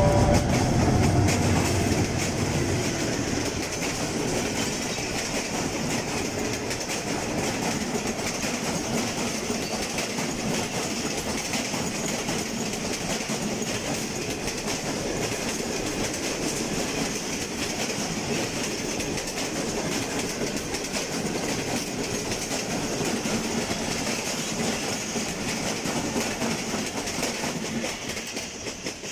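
Pakistan Railways GE/Adtranz AGE-30 diesel-electric locomotive going by with its engine note loudest in the first couple of seconds. A long rake of passenger coaches follows, their wheels running over the rail joints with a steady clickety-clack that fades away near the end.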